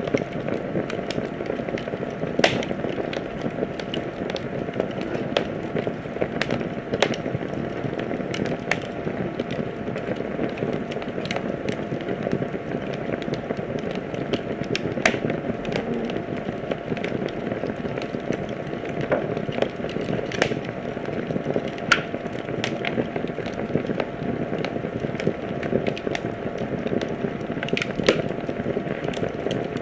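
Wood fire burning in a fireplace: a steady low rushing of flame with irregular sharp crackles and pops, a few of them louder.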